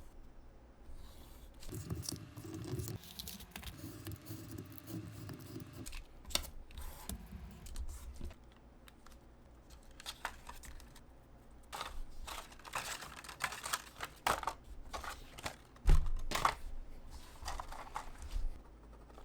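Hands-on crafting: material being handled and cut, with rustling, tearing and a run of sharp snips and clicks, and a single louder knock about three-quarters of the way through.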